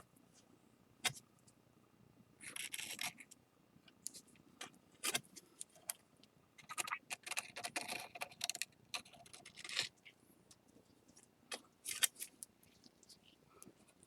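Faint, intermittent scraping with a few light clicks: a small tool scraping excess flour-and-lacquer glue off the joined seam of a ceramic plate.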